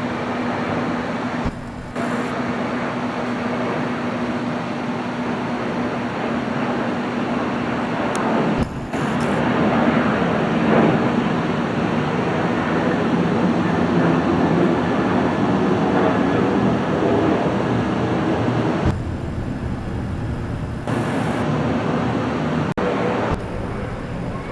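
Steady rumbling noise of jet airliners heard at an airport, swelling through the middle. It is broken by several abrupt cuts.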